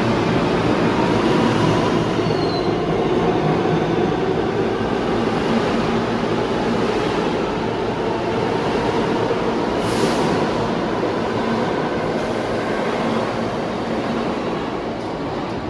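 New York City subway train running through an underground station: a loud, steady rumble of wheels on rail that slowly eases off toward the end, with a brief sharp hiss about ten seconds in.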